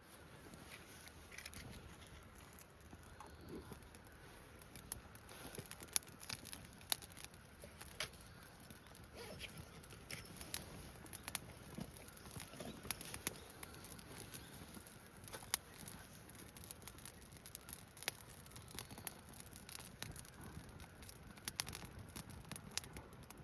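Small wood fire crackling, with irregular sharp pops and snaps.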